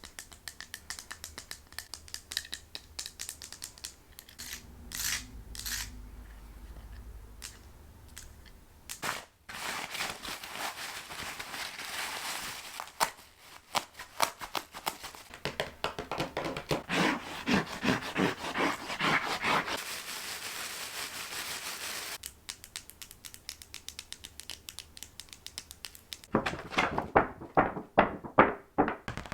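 A quick succession of different close-up ASMR trigger sounds made by hand on objects: clicking, scratching, crinkling and tapping, each lasting a few seconds before the next begins.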